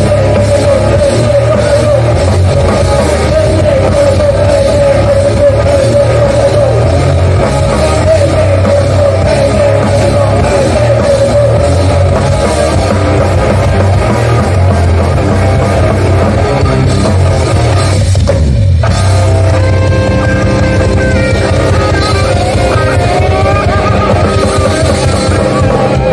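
Hardcore band playing loud rock music live, with a short break in the sound about eighteen seconds in before the music carries on.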